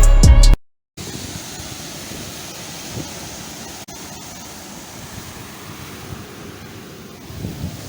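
Sea waves washing in, a steady rushing hiss with small swells and some wind on the microphone. A snatch of music cuts off abruptly in the first half second.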